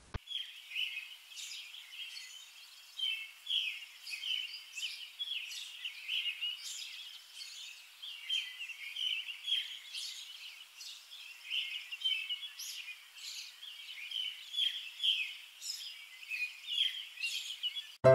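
Birds chirping in many quick, short, overlapping calls.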